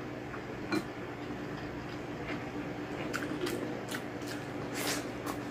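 Close-miked chewing and wet mouth sounds of someone eating balbacua beef stew and rice by hand, with a string of short, sharp lip smacks, the strongest about five seconds in, over a low steady hum.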